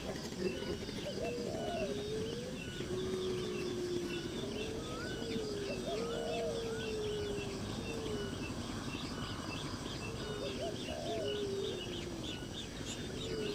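Birds chirping in quick, high peeps throughout, over lower drawn-out calls that slide up and down in pitch.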